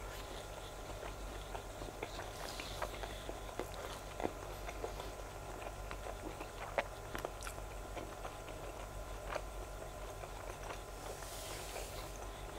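A person chewing a mouthful of grilled sausage with the mouth closed, with soft, irregular wet mouth clicks.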